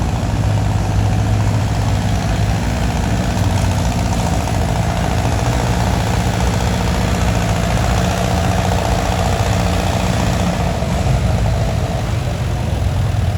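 Antique tractor engine running steadily at a low, even speed, with no revving.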